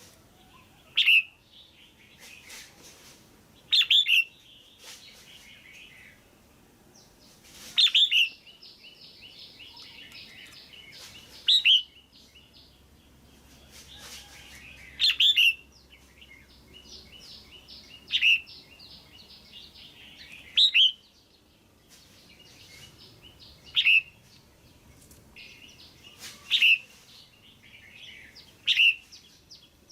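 Female red-whiskered bulbul calling: about ten loud, sharp calls a few seconds apart, with quieter rapid chattering notes in between. This is the kind of call used to stir up male bulbuls or to pair them.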